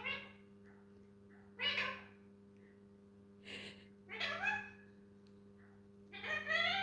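Parrot mimicking a cat's meow: four separate meow-like calls a second or two apart, over a faint steady hum.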